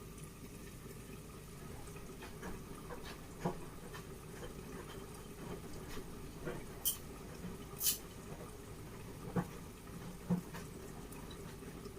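Low steady background hum with scattered faint clicks and taps; two sharper clicks come about seven and eight seconds in.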